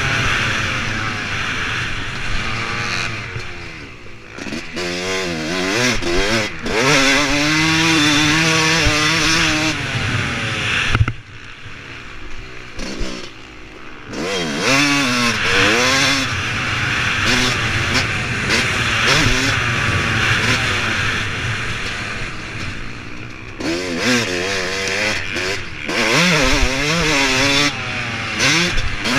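Yamaha YZ250 two-stroke motocross engine with a 300 big-bore kit, revving hard and high through the gears with the throttle rolled off and back on again and again. Its pitch swings up and down constantly, dipping as it comes off the throttle about 4 seconds in, for a few seconds around the 11-second mark, and again near the end.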